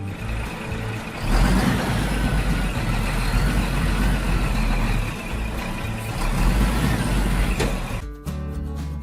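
Heavy vehicle engine running, a steady low rumble that comes in about a second in and stops near the end, with background music before and after it.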